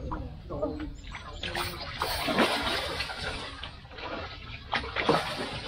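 Hooked striped catfish thrashing and splashing at the water's surface. There is a long bout of splashing from about a second and a half in, and a shorter one near the end.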